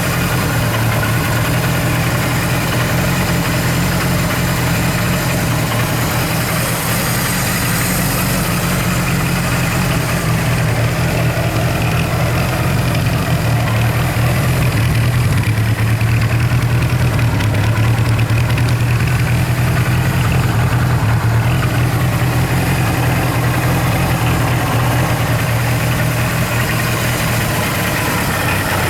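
Kawasaki Z1000's air-cooled inline-four engine idling steadily, a little louder for a few seconds about halfway through.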